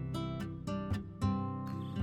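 Background music: acoustic guitar playing plucked and strummed chords, a new note or chord every few tenths of a second.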